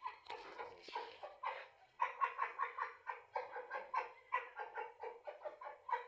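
Chickens clucking in a rapid string of short calls, several a second, with a brief rustle about half a second in.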